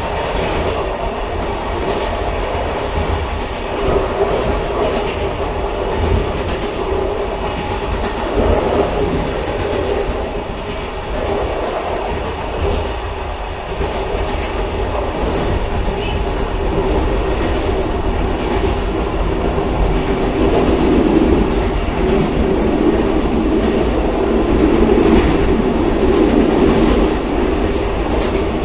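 Railcar running on the rails, a steady rumble with intermittent clickety-clack of wheels over rail joints, growing louder in the second half.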